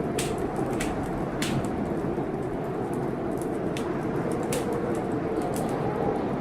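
Wood fire crackling, with scattered sharp pops, over the steady rush of a rainstorm.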